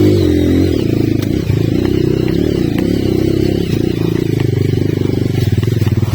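Rusi trail motorcycle engine running. Its revs drop about a second in, and it then runs at a low, throbbing speed, its firing pulses slowing and becoming distinct near the end as the engine winds down.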